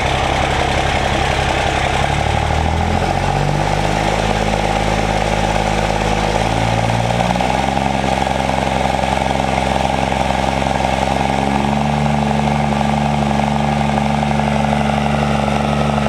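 Cummins diesel engine idling through a stainless V-band exhaust, its engine speed stepping up a few times. It is running cold, with a low-compression number one cylinder from a lightly bent valve.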